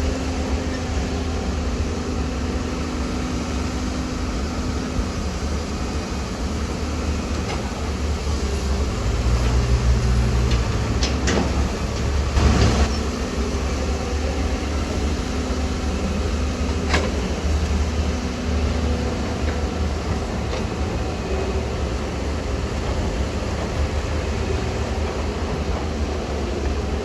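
Heavy diesel earthmoving machinery running steadily with a deep engine rumble. It gets louder for a few seconds about nine seconds in, and there are a few sharp clanks.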